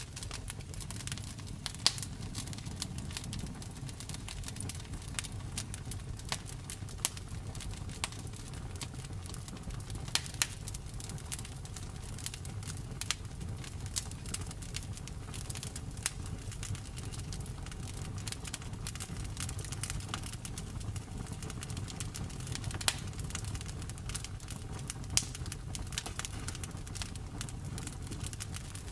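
Wood fire crackling, with frequent sharp pops and snaps over a steady low rumble of the flames; a few pops stand out louder, about two seconds in and again near the middle and late on.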